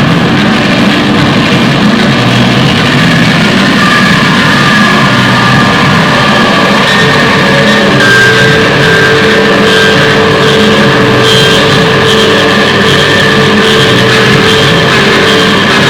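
Loud rock music with electric guitar, dense and continuous, holding a steady level throughout.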